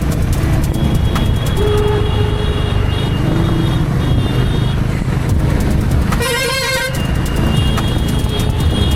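Honda H'ness CB350's single-cylinder engine and exhaust running steadily under way. A vehicle horn honks once, for under a second, about six seconds in, and other thin, steady horn-like tones from the traffic come and go before and after it.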